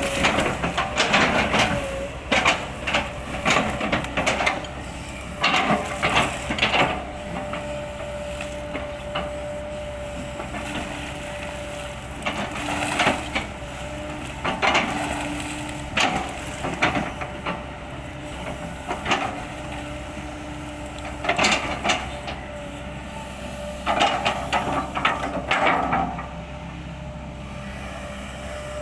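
Kobelco excavator chipping oil palm trunks: bursts of cracking and crunching wood every few seconds over the steady running of the diesel engine, with a faint hydraulic whine between the bursts.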